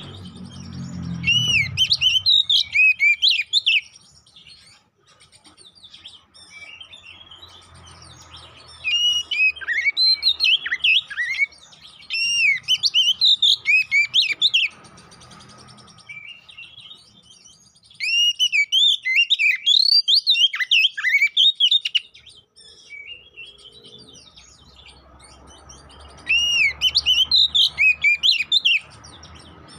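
Male Oriental magpie-robin (kacer poci) singing loud, fast, varied swooping whistled notes in its fighting song, in five bursts of a few seconds each with short pauses between.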